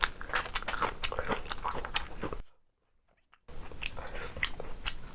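Close-miked eating: a person chewing and biting food, with many short crisp clicks and crackles. The sound drops out for about a second just before the middle.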